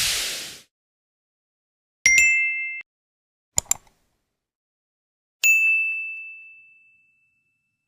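Intro sound effects: a whoosh that falls in pitch and fades out in the first half second, then a high two-note ding that is cut short about two seconds in, two quick clicks, and a single high ding about five and a half seconds in that rings on and slowly dies away.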